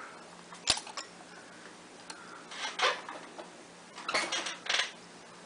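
Small clicks and scraping of a pry tool working against a Samsung Galaxy S6 Active as its glued touch screen is separated: one sharp click under a second in, a short scrape about halfway, and a cluster of scrapes and clicks near the end.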